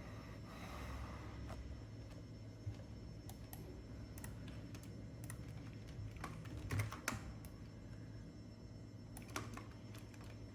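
Computer keyboard keys clicking in scattered, irregular presses, with a small cluster about two thirds of the way in, over a steady low hum.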